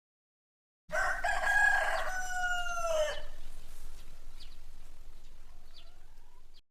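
A rooster crows once: one long call of about two seconds that slides down in pitch at the end. A faint background with a few short faint high sounds follows until it cuts off suddenly.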